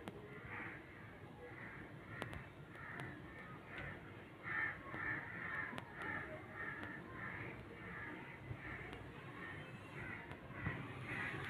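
A bird calling over and over in a steady series, about two short calls a second.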